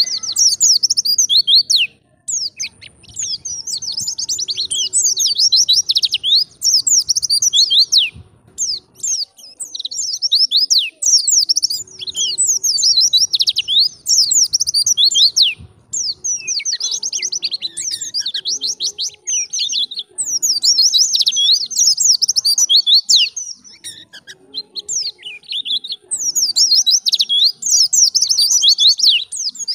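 White-eye (pleci) singing: long phrases of rapid, high-pitched twittering lasting several seconds each, separated by brief pauses.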